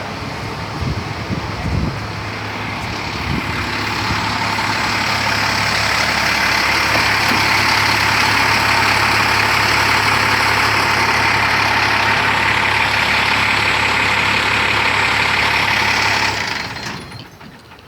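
Fire department support truck running: a steady low engine hum under a loud, even whirring hiss that builds over the first few seconds, then cuts out sharply about sixteen seconds in.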